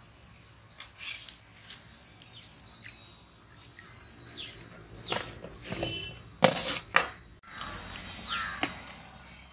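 Birds chirping in short downward-sliding calls over outdoor background noise, with scattered sharp clicks and two loud knocks in the second half.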